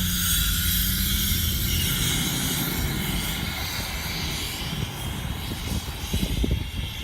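Vehicle driving: steady engine drone with road noise. The hiss eases off after a few seconds, and irregular low thumps come near the end.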